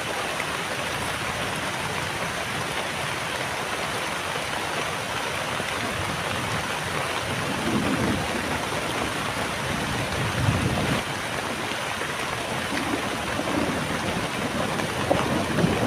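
Heavy rain falling steadily, a dense even hiss, with a couple of brief low swells about halfway through.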